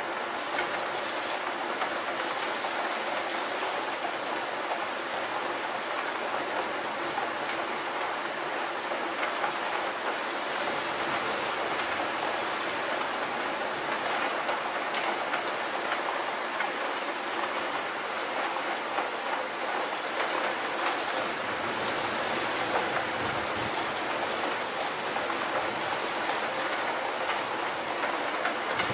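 Steady rain falling: a dense, even hiss of rain with faint scattered drop ticks running through it.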